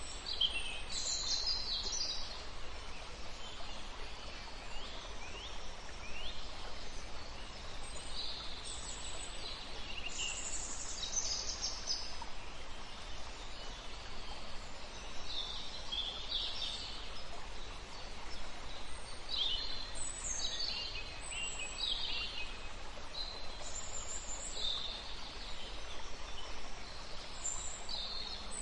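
Small birds chirping, with short high calls and quick sweeps coming every second or two over a steady background hiss.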